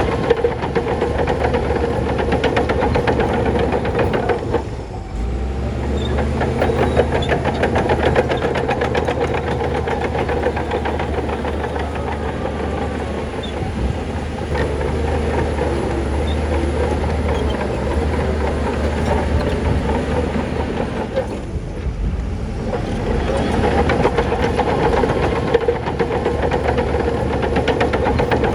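Crawler bulldozer working: a diesel engine runs steadily under a continuous rapid clatter of steel tracks. The clatter eases briefly about five seconds in and again near twenty-two seconds, while the low engine note carries on.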